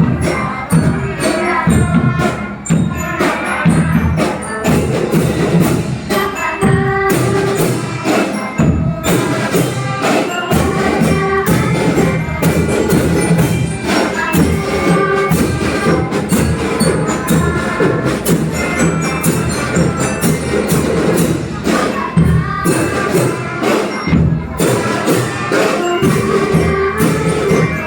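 Music from a school choir performance, with a steady rhythm of jingling percussion.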